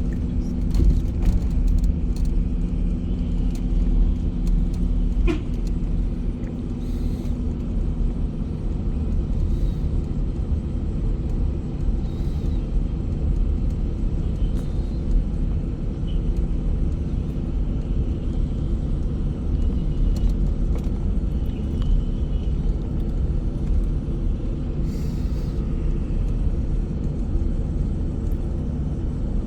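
A bus on the road: a steady low rumble of engine and road noise, with a steady engine hum that fades out about a quarter of the way in.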